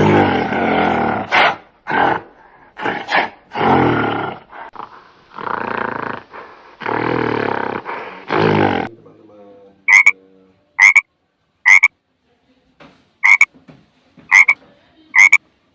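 Loud, deep animal calls for about nine seconds, then a frog croaking from about ten seconds in: short, sharp croaks about once a second, some in quick pairs.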